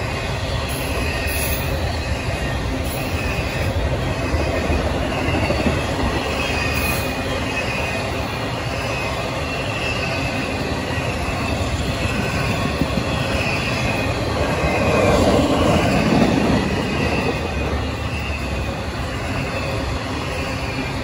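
Double-stack intermodal freight cars rolling past at close range: a steady rumble of wheels on rail with faint high wheel squeals, swelling louder about fifteen seconds in.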